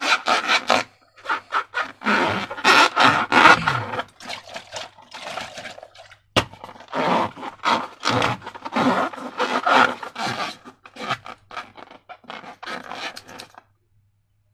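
Slime being mixed and squished, giving a run of short, irregular sticky scraping strokes with a single sharp click about six seconds in; it stops shortly before the end.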